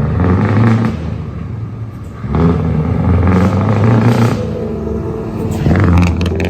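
Heavy truck's diesel engine revving: a loud, low rumble that rises and falls in repeated surges.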